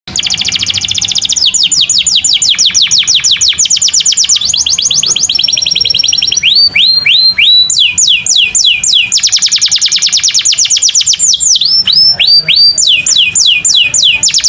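Domestic canary in full, persistent song: fast rolling trills of repeated falling notes that switch to a new phrase every second or two. There is a short held whistle about five seconds in, and a few slower upswept notes around seven and twelve seconds.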